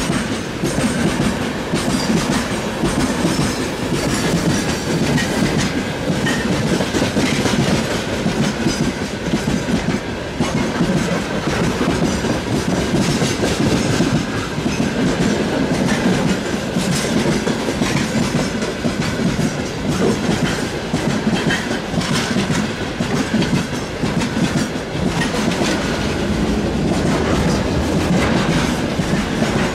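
Wagons of a long mixed freight train rolling steadily past, their wheels clacking over the rail joints with a continuous rumble.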